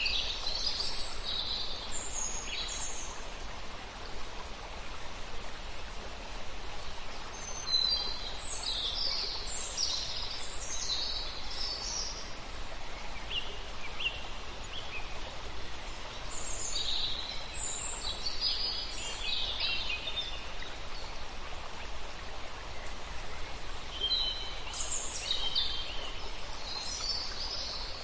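Songbirds singing: clusters of quick, high chirping phrases every few seconds, over a steady rushing background noise.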